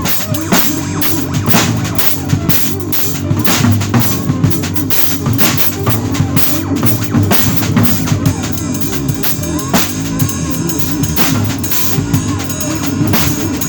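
A bass and a drum kit playing together: a busy bass line under frequent kick, snare and rimshot hits and cymbal strokes.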